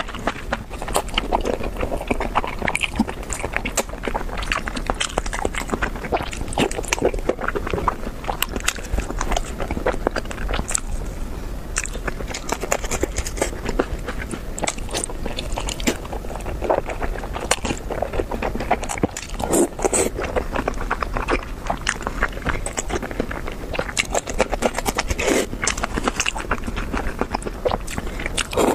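Close-miked eating sounds: a person chewing and biting food, with dense, irregular crackly clicks and mouth sounds throughout.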